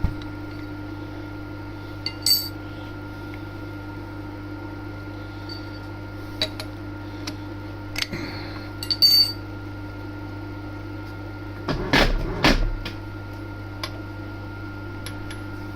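TOS milling machine running with a steady hum, broken by several sharp metallic clinks and knocks of tools and parts being handled on it, the loudest pair about twelve seconds in.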